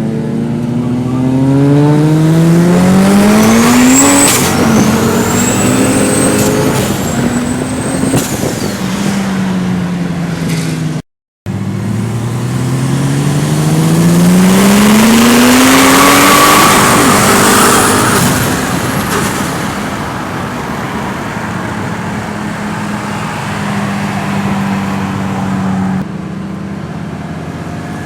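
Twin-turbo Ford BA Falcon XR8 V8 accelerating hard under full throttle twice, the engine note climbing steeply in pitch each time, with high squealing glides over the top. There is a brief dropout midway.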